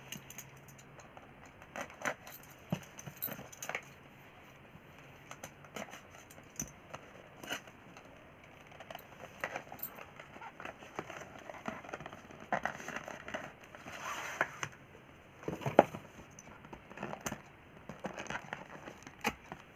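Hands handling a new phone and its box packaging: scattered clicks and taps with bouts of packaging rustle, and one louder knock about 16 seconds in.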